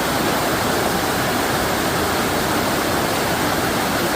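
Stream water rushing steadily, a full, even flow running high with rainy-season water.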